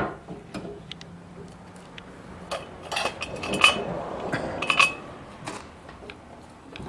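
Light metallic clicks and clinks of small engine parts and tools being handled, with a cluster of sharper clinks around the middle.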